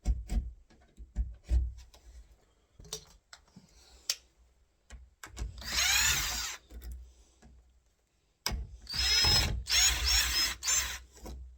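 Short knife scrapes and clicks, then a power drill-driver running twice, its motor pitch rising and falling, backing out the screws of a door latch.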